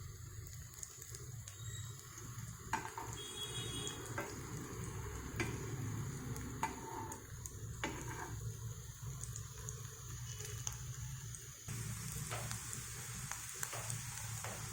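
Chicken cutlets sizzling as they shallow-fry in oil in a cast iron pan, with a steady low hum underneath. Scattered sharp clicks, a few seconds apart, come from a utensil touching the pan.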